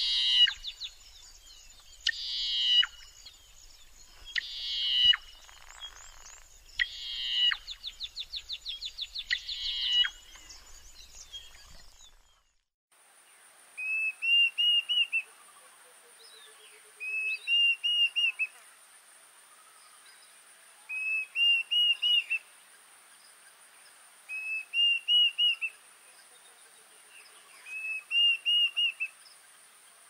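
Wild birds calling. First a bird gives five harsh, pulsing calls about two and a half seconds apart, each swelling in loudness. After a sudden cut, a different bird repeats a short whistled phrase of four or five notes about every three and a half seconds over a steady high-pitched hum.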